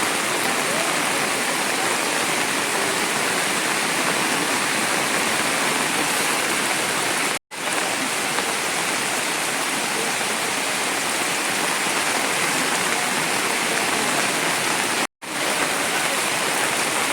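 Heavy rain pouring steadily, a dense, even hiss. It cuts out abruptly for an instant twice, about seven and a half seconds in and again at about fifteen seconds.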